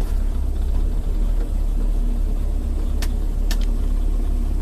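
Steady low rumble of a 1965 Ford Thunderbird's 390 four-barrel V8 running as the car drives, with two faint clicks about three and three and a half seconds in.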